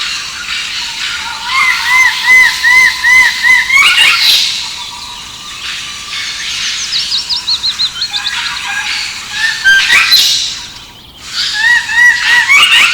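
Birds calling: one repeats a series of short arched notes, about three a second, twice, and a quicker run of thin, high, falling notes comes in between, over a steady background hiss.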